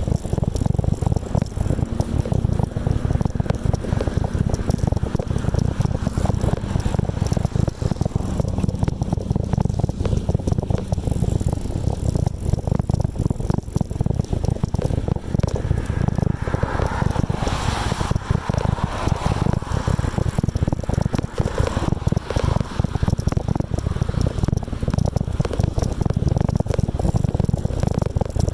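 Wind buffeting the microphone of a camera riding along on a bicycle, a steady gusty rumble with rattling from the bike; a brighter hiss swells up in the middle and fades again.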